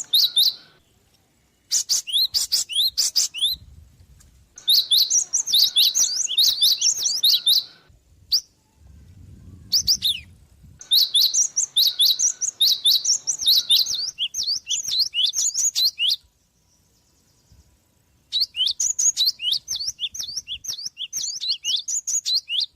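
Gelatik bird calling: rapid, high chirps in runs of a few seconds, with short pauses between runs, the longest of them a little after the middle.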